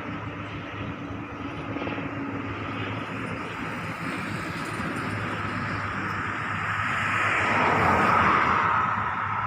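Pilatus PC-7 Mk II turboprop trainer passing on its landing approach, with a steady turbine whine over the propeller and engine noise. It grows louder to a peak about eight seconds in, then fades as the aircraft moves away.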